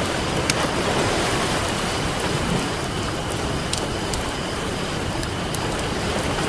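Ocean surf washing steadily while a wood campfire crackles, with sharp pops scattered through it.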